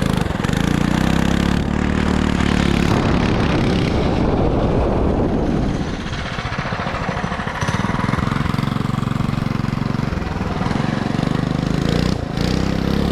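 Modded 212cc single-cylinder four-stroke minibike engine running. It drops back into a rougher, uneven stretch about halfway through, then settles into a steady pitch again.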